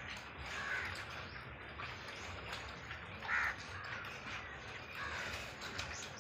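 Bird calls: a few short, harsh caws, the loudest about three seconds in, over a steady low hum.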